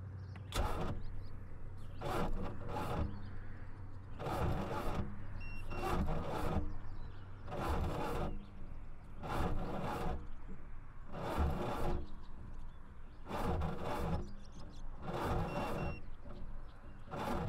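Boat motor's electric starter straining in short repeated bursts, about every two seconds, without the engine turning over or catching. It draws so much current that the wires smoke, the sign of something badly wrong inside the engine.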